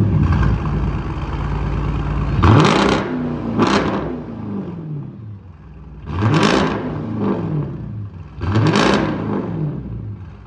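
A 2015 Dodge Durango R/T's 5.7-litre Hemi V8 running through a resonator-deleted exhaust. It runs steadily for a couple of seconds, then is revved four times, each rev dropping back to idle.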